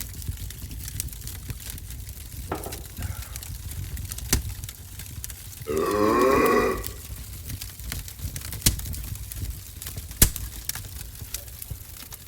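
A man's loud, drawn-out burp lasting about a second, midway through. Scattered sharp crackles from a wood-burning stove fire sound throughout.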